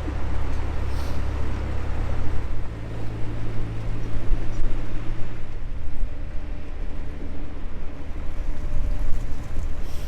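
Narrowboat diesel engine running under way, its low note changing about two and a half seconds in and again near the middle as the throttle is worked through a turn, with wind rushing across the microphone.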